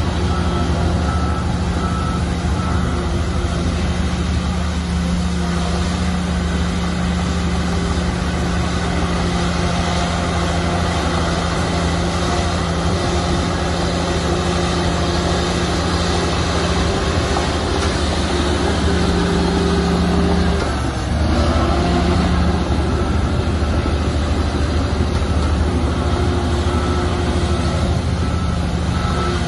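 Shantui bulldozer's diesel engine running steadily under load, its note dipping briefly about two-thirds of the way through. A reversing alarm beeps near the start and again toward the end.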